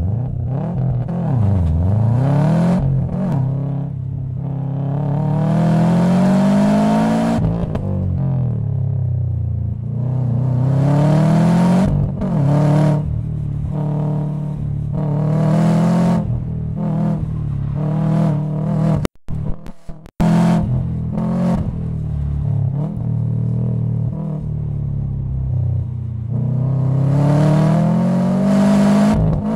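2006 Subaru WRX STI's turbocharged flat-four, heard from inside the cabin, revving hard and falling back again and again as the car is driven flat out through an autocross course on a TurboXS turboback exhaust. The sound cuts out for an instant twice, a little past two-thirds of the way through.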